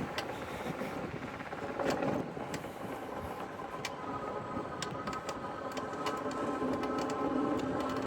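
E-bike riding along a paved path: its electric motor gives a steady whine that comes in about four seconds in, over tyre and wind noise, with scattered light clicks and rattles from the bike.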